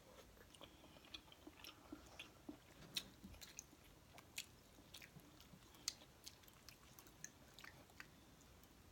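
Close-miked chewing and mouth sounds of a person eating, with scattered short sharp clicks, the loudest about three and six seconds in.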